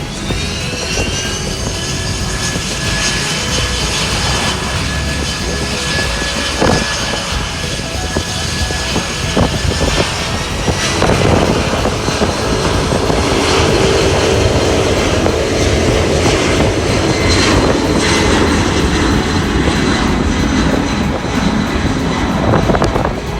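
Airplane engines passing low near the runway: a whine that rises at first, holds steady, then climbs a step about ten seconds in, growing louder through the second half.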